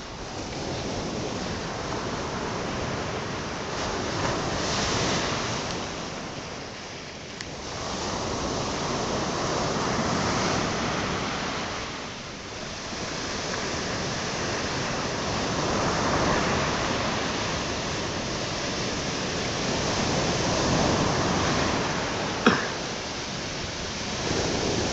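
Black Sea surf breaking on the shore, the rush of water swelling and falling every few seconds. A single sharp click comes near the end.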